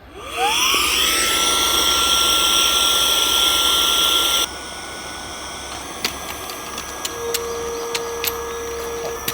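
Electric air pump spinning up with a rising whine to a steady pitch and running loudly, inflating an air tent's beams. About four and a half seconds in the sound drops abruptly to a much quieter, steady hum with a few light clicks.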